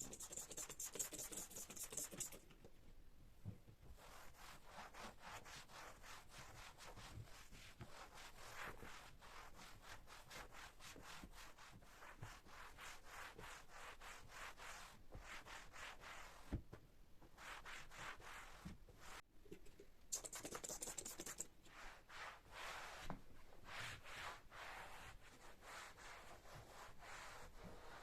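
Faint rubbing of a cloth wiping a surface in quick, even back-and-forth strokes, with a high hiss lasting about two seconds at the start and again about 20 seconds in.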